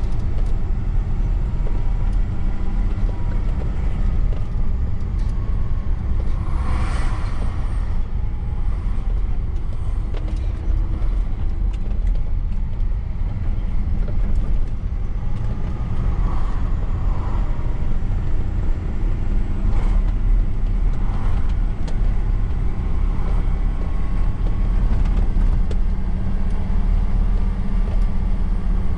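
Truck's diesel engine running steadily on the move, a constant deep drone, with a brief hiss about seven seconds in and a few light clicks later on.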